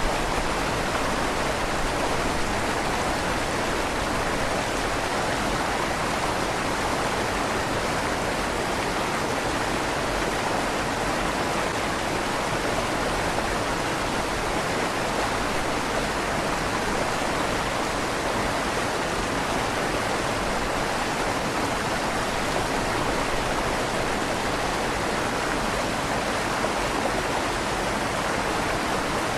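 River water flowing steadily through a stone bridge tunnel, an even rushing with a slight echo off the stone walls.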